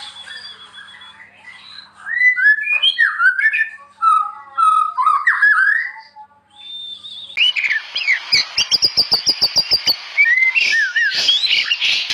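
White-rumped shama singing: varied clear whistled phrases that glide up and down. About seven seconds in it turns louder and busier, with a fast run of ticking notes, about six a second, under repeated high chips.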